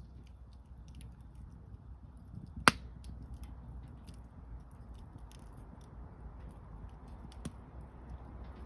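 Campfire crackling with many small ticks and snaps over a low steady rumble, and one sharp, loud pop from the burning wood about two and a half seconds in, with a smaller pop near the end.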